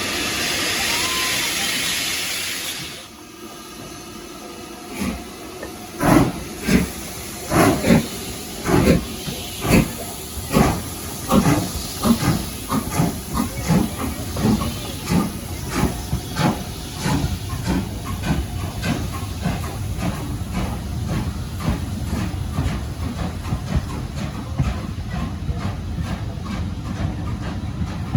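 Steam locomotive starting away: a loud hiss of steam that cuts off about three seconds in, then exhaust beats that begin slowly and quicken steadily as it gathers speed.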